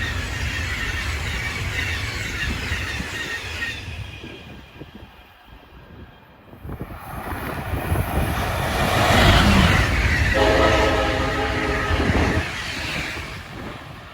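A train running past and fading away, then a train approaching again and sounding its horn in one blast of about a second and a half.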